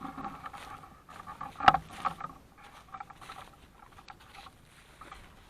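Irregular rustling and light crackling, with one sharp knock a little under two seconds in.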